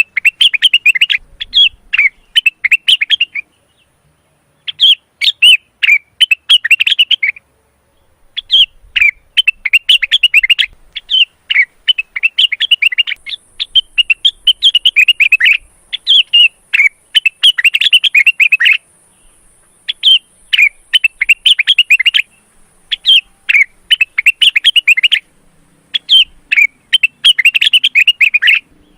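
Male blue-winged leafbird (cucak wilis, or rengganis) singing in breeding condition: rapid, chattering phrases of one to three seconds each, repeated with short pauses between them.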